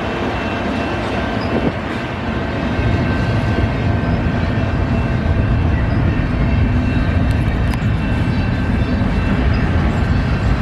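A train passing on the rails: a steady rumble of wheels and cars that grows louder about two and a half seconds in and then holds.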